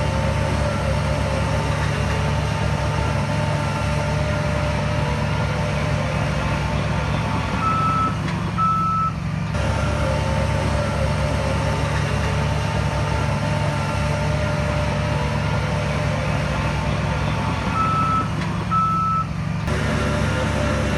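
Heavy diesel earth-moving machinery running steadily under load, with a high whine over the engine. A pair of short high beeps comes twice, about ten seconds apart.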